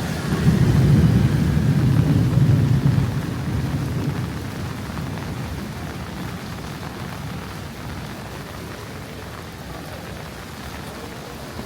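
A long roll of thunder, loudest in the first few seconds and dying away by about four seconds in, over steady rain.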